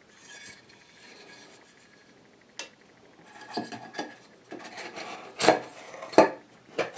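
Wooden slats knocking and rubbing against a wooden water-wheel frame as they are glued and pushed into place: handling noise with scattered sharp taps, the loudest two about five and a half and six seconds in.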